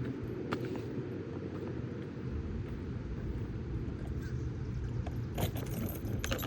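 Steady low rumble of wind buffeting the microphone, with a sharp click about half a second in and a few more clicks near the end.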